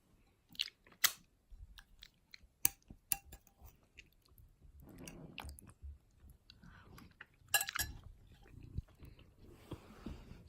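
Chewing, with a scatter of sharp clicks and taps of cutlery against a plate.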